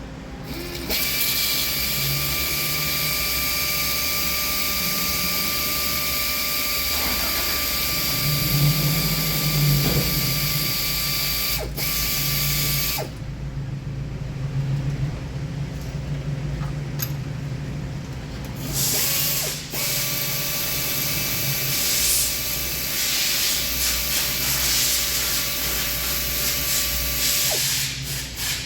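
A small motor running steadily with a high whine, like a power tool, in two runs: about twelve seconds from just after the start, then about eight more seconds after a pause in the middle.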